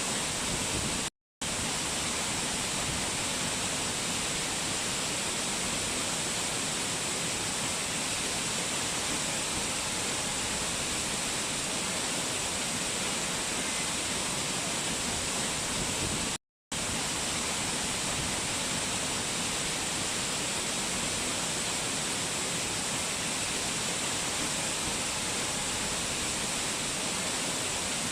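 Steady rushing of fast-flowing mountain water. It cuts out to silence for a split second twice, about a second in and again about sixteen seconds in.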